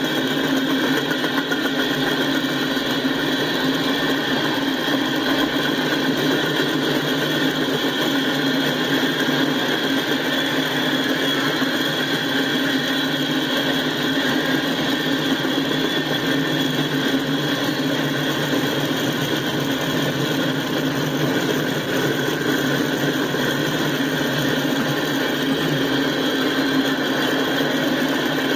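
Freight train's tank cars rolling steadily past on steel wheels, a continuous rumble and clatter of wheels on rail.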